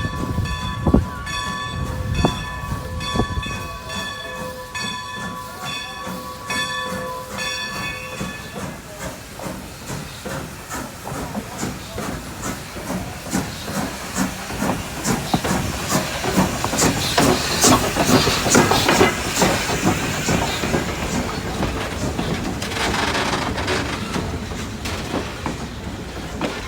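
Strasburg Rail Road No. 90, a steam locomotive, arriving: a steady pulsing ringing tone for the first eight seconds or so, then hissing steam and a run of clicks and clanks as it rolls in, loudest a little past the middle.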